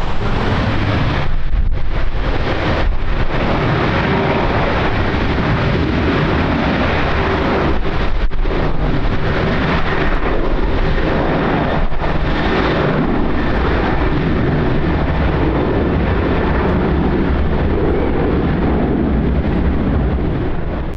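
Strong wind buffeting the microphone: a loud, steady rush with brief dips between gusts.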